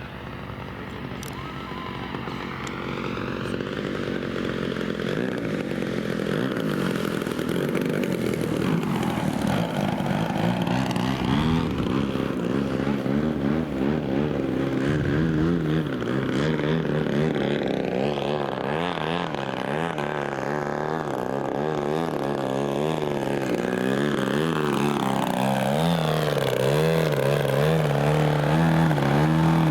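Engine of a radio-controlled model airplane flying around, a steady buzzing drone whose pitch wavers up and down as it passes, growing gradually louder.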